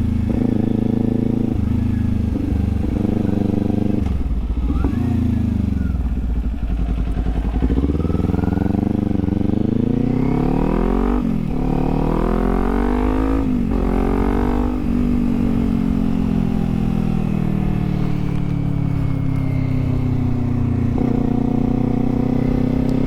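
Kawasaki Z400's parallel-twin engine on the road. The revs climb twice in the middle, dropping sharply at each gear change, then fall slowly as it eases off, and pick up again near the end.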